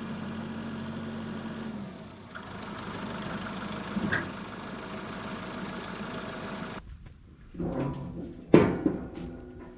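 A vehicle engine running steadily. About seven seconds in it stops abruptly, and a few knocks and one loud thump follow.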